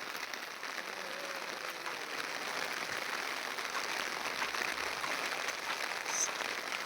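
Light rain falling steadily, an even hiss of drizzle.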